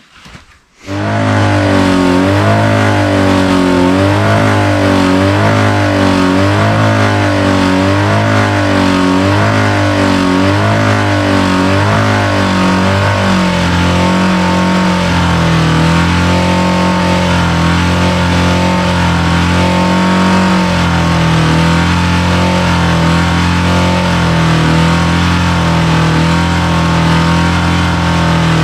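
Rebuilt Kawasaki GPz400R inline-four engine running: its revs swell and fall regularly for about twelve seconds, then hold steadier.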